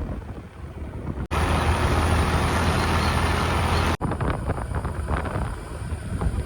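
Motor vehicle engine and road noise, in three short edited pieces; the middle one is a steady low drone.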